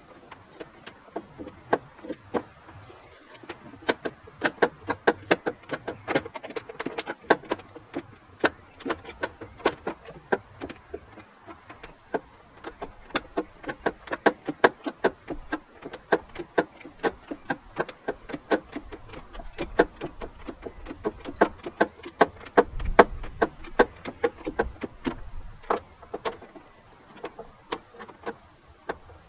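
Ratchet wrench clicking in quick runs of strokes with short pauses between them, working a stubborn fastener loose.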